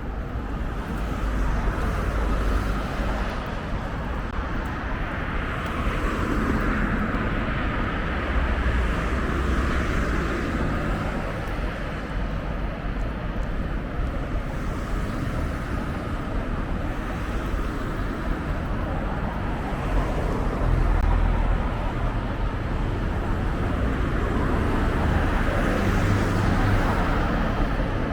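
Outdoor road-traffic noise: a steady background of vehicles, with cars passing and swelling louder several times.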